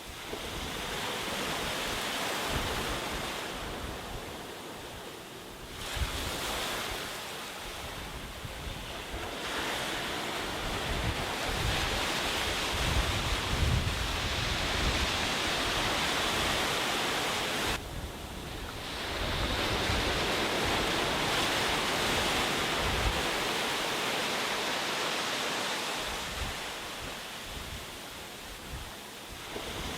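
Sea waves washing onto a beach: a steady rushing that swells and eases every few seconds.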